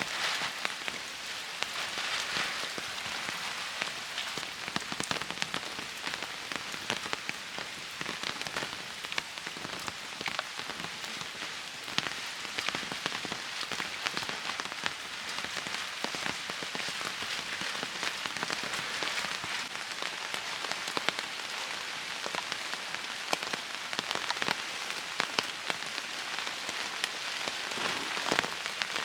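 Steady rain falling, with many separate drops tapping throughout.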